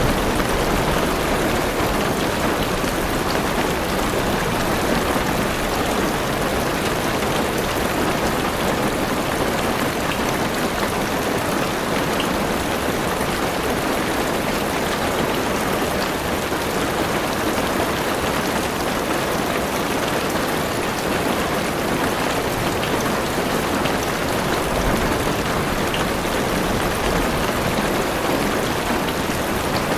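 Heavy rain falling steadily on a car's roof and windows, heard from inside the car.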